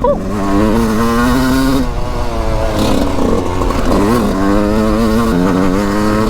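2001 Yamaha YZ125's single-cylinder two-stroke engine being ridden hard, its pitch climbing under throttle, dropping off about two seconds in, then climbing again and falling back once more near the end. A low rumble sits beneath it.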